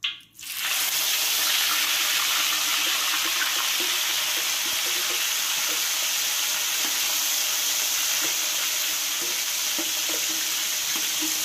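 Prawns deep-frying in hot oil in a wok: a steady, loud sizzle that starts suddenly about half a second in as the first prawns go into the oil.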